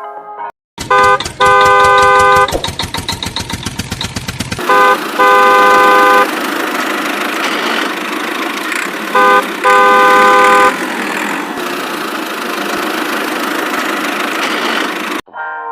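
A vehicle horn sounding a short honk then a long one, three times over, above a running engine. The engine chugs fast for the first four seconds, then settles into a steady running noise that cuts off suddenly near the end.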